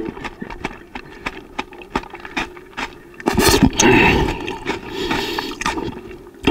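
Close-miked crunching and chewing of raw napa cabbage: a dense run of small crisp clicks, with a louder rustling stretch about three and a half seconds in.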